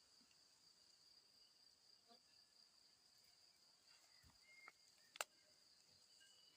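Near silence with a faint, steady, high-pitched insect song, and a single sharp click about five seconds in.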